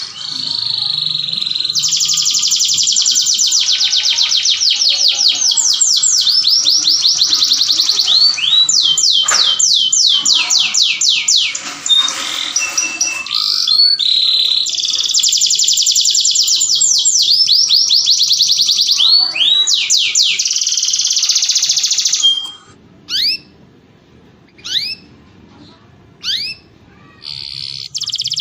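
Domestic canary singing: long, fast, high trills of rapidly repeated notes, some sweeping up or down, running on almost without a break. From about 22 seconds in the song thins to a few separate downward-sweeping chirps with pauses between them.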